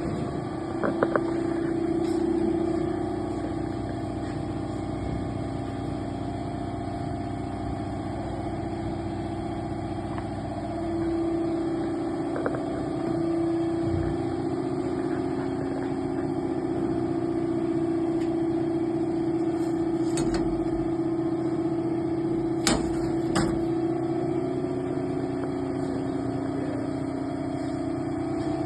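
Olive oil mill processing line running: a steady machine hum with a strong drone, joined by a few sharp clicks and knocks, two of them close together about two-thirds of the way through.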